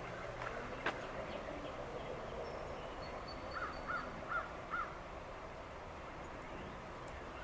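A bird calling four times in quick succession, short arched calls about half a second apart, over steady outdoor background noise, with one sharp click about a second in.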